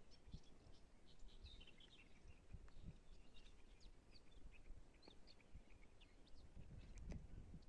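Faint birdsong: many short, high chirps and twitters from small birds, with a few low thumps and a low rumble underneath.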